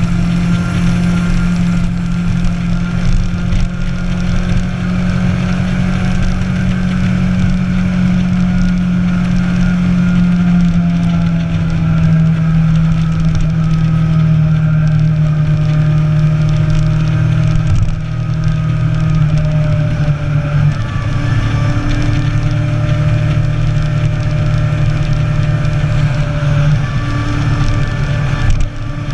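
Motorcycle engine running steadily under way, with wind noise on the microphone. The engine note drops in steps several times, near the middle and again later.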